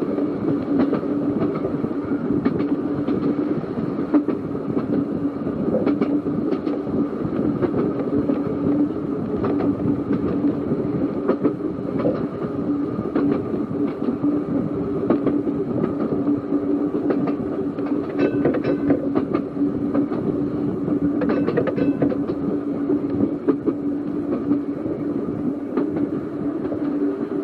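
Seaton Tramway's narrow-gauge electric tram running along the track: a steady hum with a frequent clicking of wheels over rail joints. Two short higher-pitched sounds come about two-thirds of the way through.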